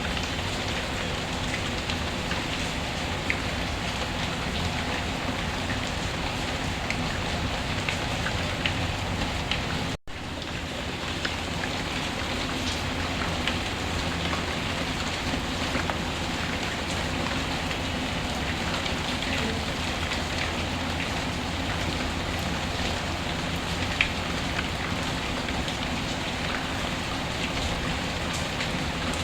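Steady rain with scattered sharp ticks. The sound drops out for an instant about ten seconds in, then resumes.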